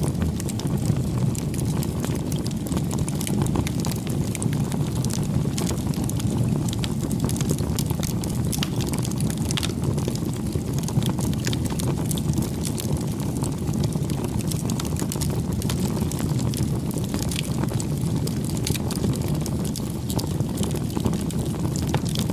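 Wood campfire burning: a steady low rumble of flames with frequent small crackles and pops.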